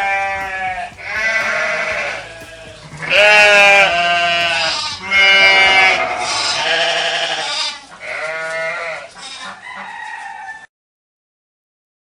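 Bleating livestock: about seven loud, drawn-out bleats one after another, cutting off abruptly near the end.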